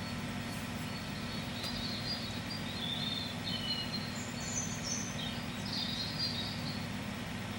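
Birds chirping in short, scattered high calls over a steady low background noise.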